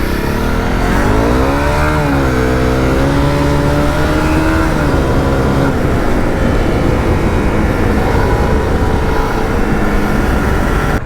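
Honda CRF250L's single-cylinder four-stroke engine revving up as the bike rides under load. The pitch rises over the first two seconds, holds high for a couple of seconds, then drops and runs rougher to the end.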